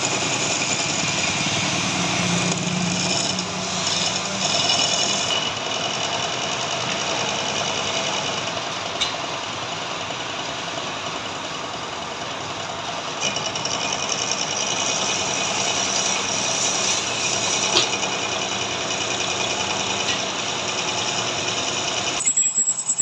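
Metal lathe running steadily: a dense mechanical noise with faint high whining tones, and two short sharp clicks, one about nine seconds in and one near eighteen seconds. The sound changes abruptly just before the end.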